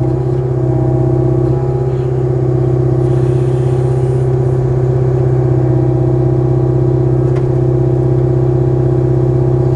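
Kubota KX057-4 excavator's diesel engine running steadily at a constant pitch while its hydraulics drive a log splitter attachment.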